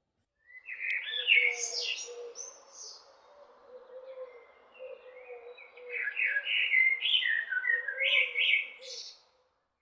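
Small birds chirping and singing in quick, gliding notes. They are busiest about a second in and again in the second half.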